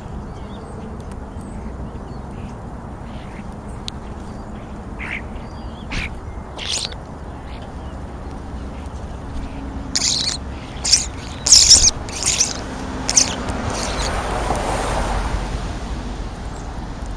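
Birds calling: scattered short, high calls that grow thicker and louder about ten seconds in, followed near the end by a brief rushing noise.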